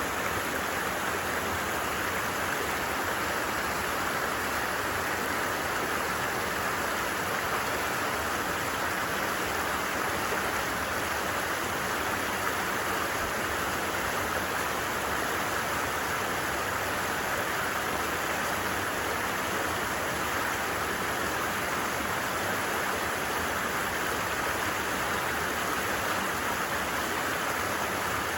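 A creek flowing steadily, an even, unbroken wash of running water.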